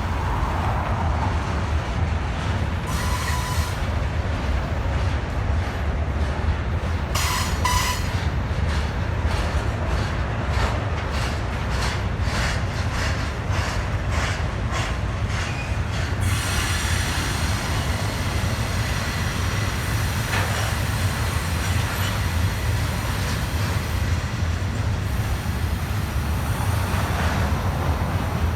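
Freight train rolling past with a steady heavy rumble, a couple of short wheel squeals in the first third, and a run of rhythmic wheel clicks through the middle.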